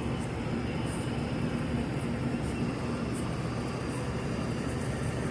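Steady low background rumble with a faint even hum, from machinery running, with no distinct strikes or changes.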